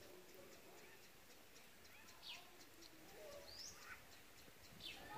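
Near-silent outdoor background with faint bird calls: a few short whistled notes that slide in pitch, over a faint, fast high ticking.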